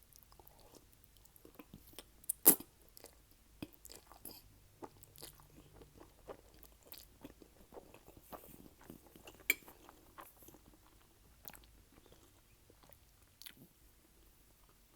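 Close-miked mouth sounds of eating: chewing with scattered crisp crunches of over-toasted garlic bread. The two loudest crunches come about two and a half seconds in and about nine and a half seconds in.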